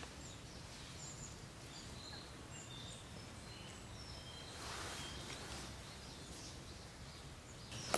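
Background ambience of scattered short, high bird chirps over a steady low rumble, with a brief rustle about five seconds in.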